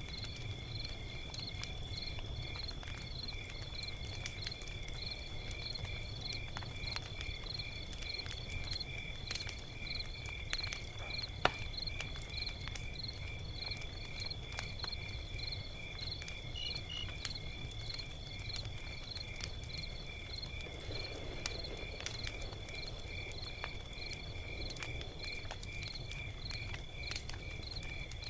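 Log fire crackling with scattered sharp pops over a low rumble, while crickets chirp steadily at about two chirps a second.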